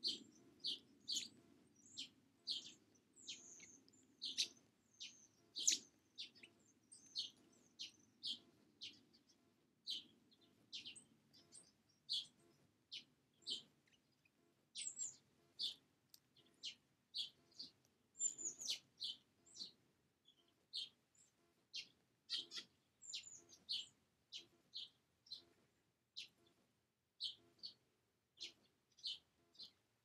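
A small bird calling over and over: short high chirps, about one or two a second, some with a quick downward slur.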